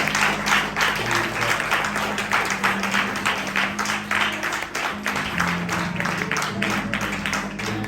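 Congregation clapping in a steady rhythm, about four claps a second, over sustained low instrumental chords.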